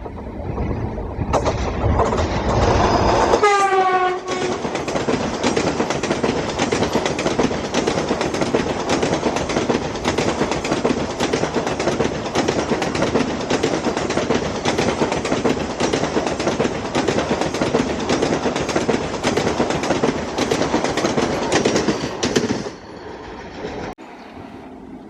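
An electric express train sounds its horn for about two seconds, the pitch dropping as it passes, then runs by at speed with continuous wheel clatter over the rail joints, which fades out near the end.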